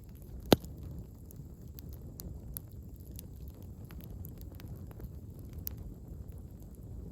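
Campfire of burning firewood logs crackling, with scattered small snaps over a low steady rumble of the flames and one sharp loud pop about half a second in.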